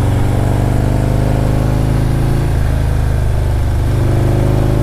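Motorcycle engine running steadily under load through tight curves at about 35 to 40 mph, its note shifting slightly twice as the throttle changes.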